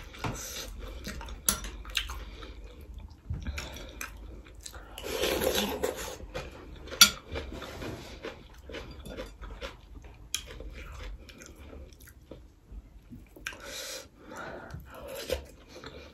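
Close-miked chewing and crunching of a mouthful of chana and crispy nimki in broth, full of short mouth clicks, loudest about five to six seconds in. A single sharp click about seven seconds in stands out above the rest.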